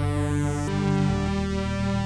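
Analog synthesizers, two 2-XM voices played from a controller keyboard, holding sustained chords. The chord changes about two-thirds of a second in and again just after one second.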